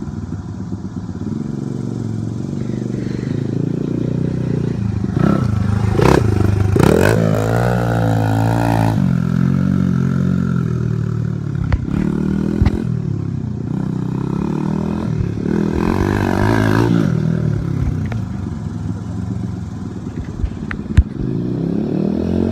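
Honda XR100R dirt bike's single-cylinder four-stroke engine running and revving up and down, with a long rising rev about seven to nine seconds in. A few sharp knocks sound around the middle, and a loud click comes near the end.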